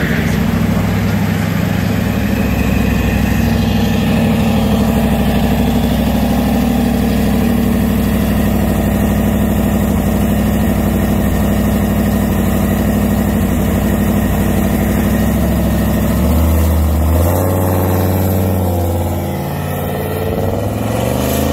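Small-block V8 of a 1951 Nash Rambler pro street car running at a low, steady idle-speed rumble while the car rolls along, then pulling away with the engine pitch rising near the end.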